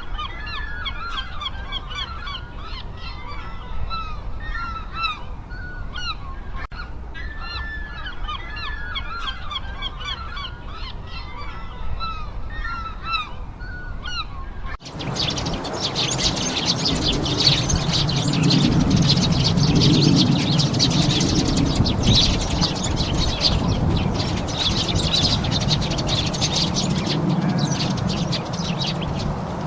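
Recorded bird calls: for the first half, a repeating run of high, quick, descending calls. About halfway through it switches abruptly to a dense, noisy chorus of many birds calling at once, with lower calls underneath.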